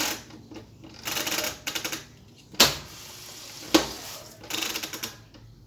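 Whirlpool washing machine making a strange, rapid clattering rattle in short bursts under a second long, about every second and a half, with two sharp clicks in between. The drum is locked and will not spin, and the owner thinks it sounds as if the motor has seized.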